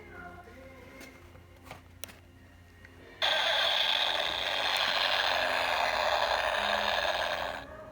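Electronic sound effect from a toy truck's small speaker: a harsh mechanical grinding noise that starts suddenly about three seconds in and stops abruptly near the end.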